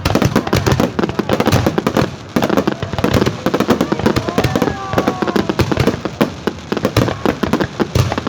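Fireworks display going off in a dense, rapid run of bangs and crackles.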